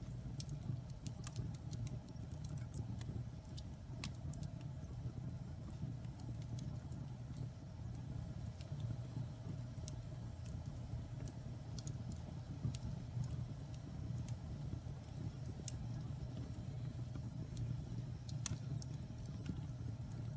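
Wood fire burning in a fireplace: a steady low rumble of the flames with scattered sharp crackles and pops of burning logs, one louder pop near the end.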